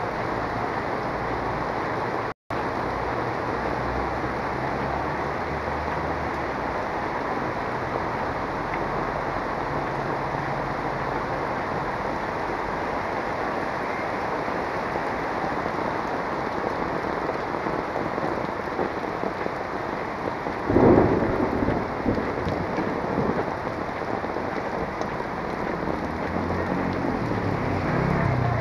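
Heavy rain pouring down, a steady dense hiss of rain on the street and on the camera. There is a split-second break in the sound about two seconds in, and a sudden louder burst of low rumbling noise about three quarters of the way through that fades over a couple of seconds.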